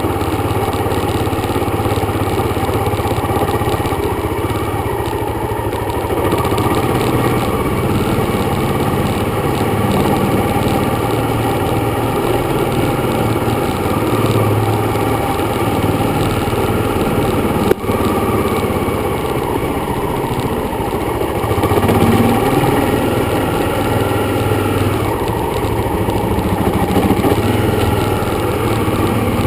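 Dirt bike engine running steadily under way, its note shifting a little with the throttle, over a broad rush of noise. A single sharp knock about two-thirds of the way through.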